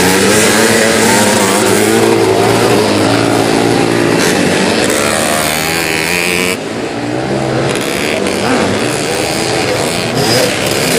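Classic twin-shock motocross motorcycles racing, their engines revving up and down as the riders work the throttle, with more than one bike heard at once.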